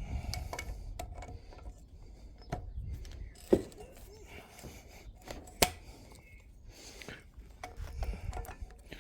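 Hand tools and metal parts being worked at a workbench: scattered clinks and small knocks, with two sharp strikes about three and a half and five and a half seconds in.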